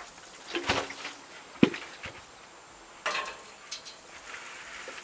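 A few separate knocks and clinks, some leaving a short ringing tone.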